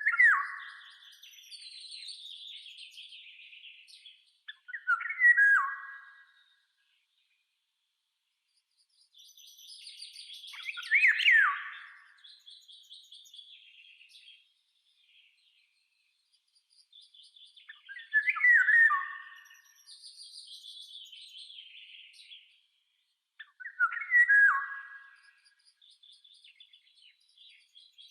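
Birdsong: five loud, whistled phrases come roughly every six seconds, with softer, higher chirping in between.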